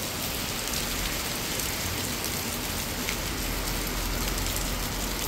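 Heavy rain falling steadily on a wet road and pavement.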